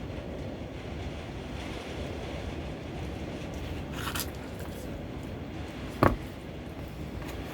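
Steady low rumbling background noise, with a faint click about four seconds in and a single sharp knock about six seconds in, the sounds of handling tools and parts on a workbench.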